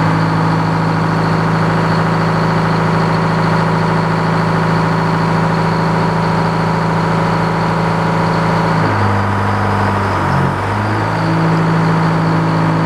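Sawmill engine running steadily at speed. About nine seconds in its pitch drops for a second or two, then climbs back to the same speed.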